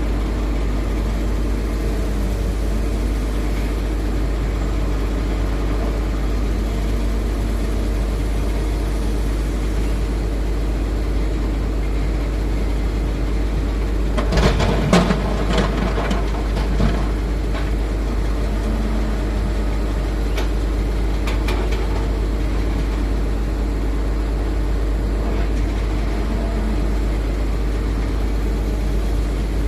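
Diesel engine of a Hitachi Zaxis 210F excavator running steadily, with a short burst of clatter and knocks about halfway through.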